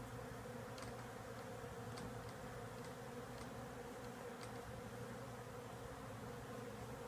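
A large colony of bees humming in a wall cavity: a steady, unbroken drone, with a few faint ticks here and there.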